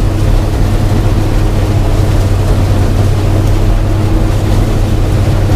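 Old gasoline-engined combine harvester running steadily under load while harvesting corn: a loud, even engine drone with the rumble of the corn head and feeder working.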